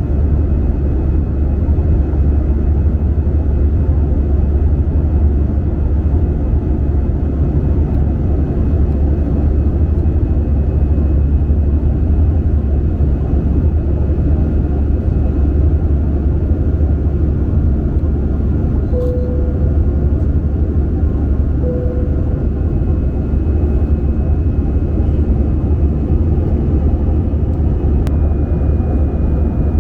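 Airbus A320 cabin noise: a steady, even rumble of the engines and airflow, heard from a window seat inside the cabin.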